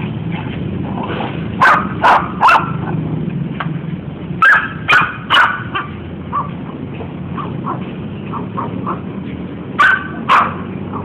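Kintamani dog barking in short bursts: three quick barks about two seconds in, three more about halfway through, and two near the end.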